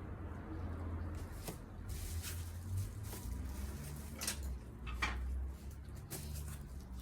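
Scattered clacks and knocks from the parts of an air-conditioner outdoor-unit cover being handled and fitted, over a steady low rumble.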